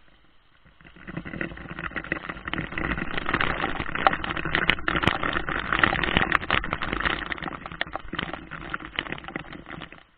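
Heavy rain striking an SJ4000 action camera directly: a dense, loud crackle of close drop hits on the camera body. It builds up about a second in and fades away near the end.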